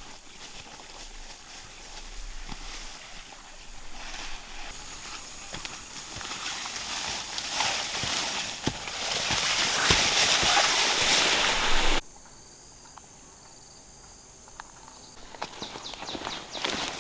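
Steady hiss of rain that grows louder, with scattered footsteps and small knocks; it cuts off suddenly about twelve seconds in to a quieter stretch, and steps and clicks return near the end.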